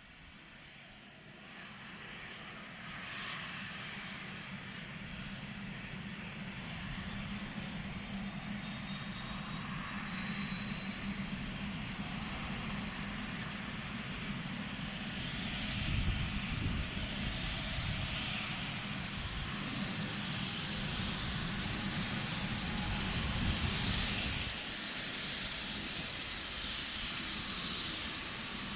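Airbus H145 rescue helicopter's turboshaft engines spooling up: a high turbine whine rises slowly in pitch and grows louder, with rotor noise building beneath it. The low rotor noise is strongest a little past halfway and eases slightly near the end.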